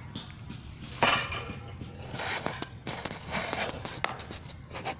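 Irregular rustling and scraping noises, with a sharp, loud scrape about a second in.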